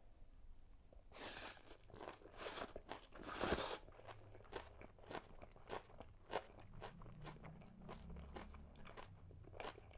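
Close-miked eating of kimchi and Chapagetti black bean noodles. About a second in come three loud crunchy bites, then steady chewing with many small clicks.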